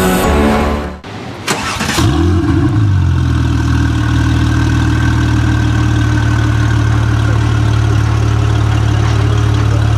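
Background music cuts off about a second in. A car engine then starts, its revs flaring briefly and settling into a steady idle.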